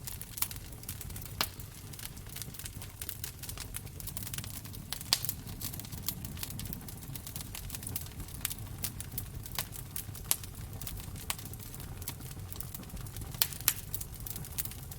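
Wood fire crackling in a fireplace: irregular sharp pops and snaps over a low steady rumble of the flames, with the loudest pops about five seconds in and twice in quick succession near the end.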